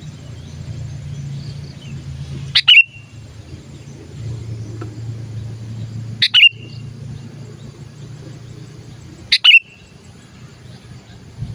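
Sooty-headed bulbul (kutilang) giving three loud, short calls about three seconds apart, each a quick double note that drops in pitch. A low, steady hum runs underneath.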